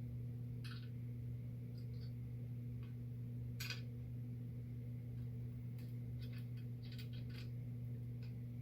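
Scattered light clicks and taps of small parts and tools being handled while assembling a laser engraver's frame, a few of them closer together near the end, over a steady low hum.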